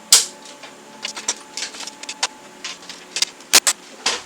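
Irregular metallic clicks and clanks of hand tools on the bolts of a Craftsman riding mower's seat hinge as the old seat is unbolted, with a sharp knock at the start and two loud ones close together near the end.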